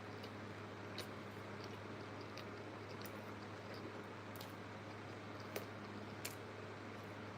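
Close-up eating sounds: scattered crisp clicks and smacks of chewing and biting, over a steady low hum.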